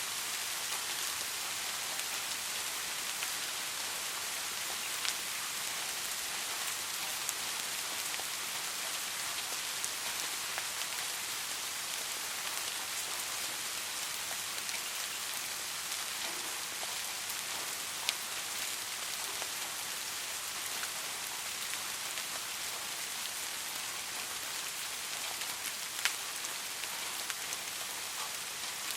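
Steady soft rain falling on a surface, an even hiss, with a few louder single drop ticks now and then.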